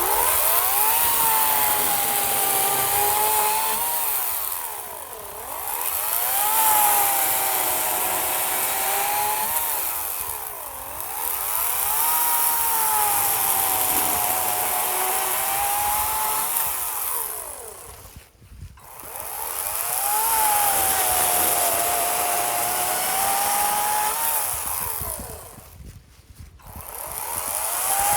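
EGO 56-volt battery chainsaw bucking a seasoned cherry log. The electric motor's whine jumps up in pitch each time the trigger is pulled and sags as the chain bites into the wood. The saw eases off briefly several times and stops almost completely about two-thirds of the way through, then runs again.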